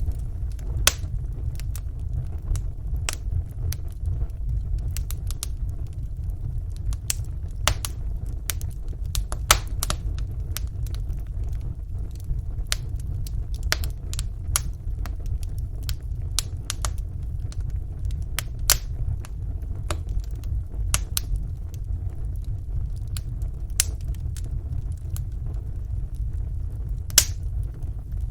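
Wood fire burning in a fireplace: a steady low rumble with small sharp crackles and pops coming at irregular intervals.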